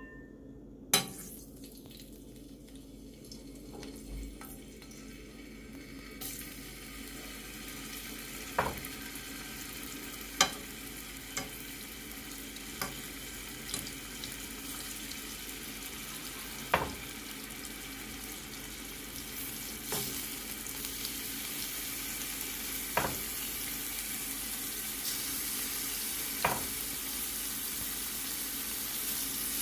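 Chicken breasts frying in oil in a pan: a steady sizzle that grows louder, with occasional sharp pops.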